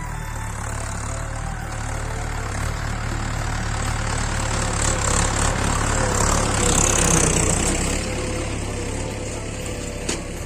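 Mahindra 415 DI SP Plus tractor's diesel engine running steadily, growing louder to a peak about two-thirds of the way through, then easing off. A single sharp click comes near the end.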